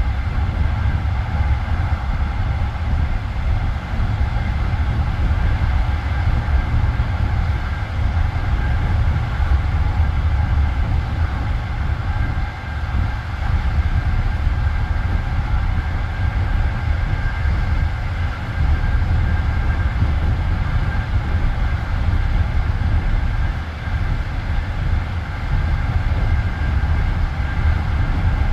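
Passenger train carriage running between stations: a steady low rumble of wheels on the rails, heard from inside the car.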